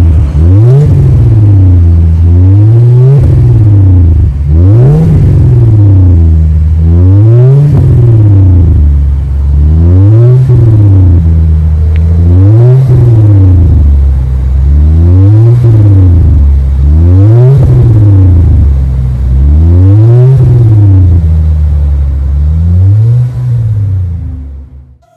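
Mercedes-Benz C300's turbocharged four-cylinder engine revved repeatedly through a custom cat-back dual exhaust with a Magnaflow X center muffler and Street Demon rear mufflers. There are about ten revs, each rising in pitch and falling back, every couple of seconds.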